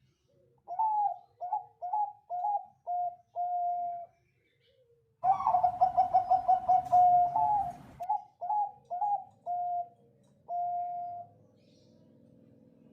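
Zebra dove (Bangkok perkutut) singing its staccato cooing song: a series of short, rising coos, then a louder, rapid run of coos about halfway through. After that come a few more short coos and one longer held coo.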